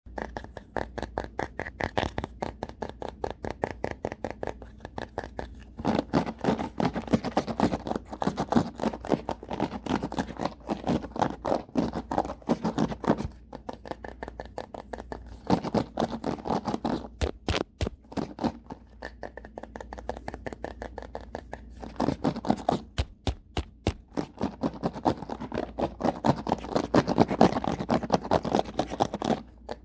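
Fast, rapid strokes of a brush's bristles scraping across the camera and its microphone, about five strokes a second, heavier and louder in two long stretches.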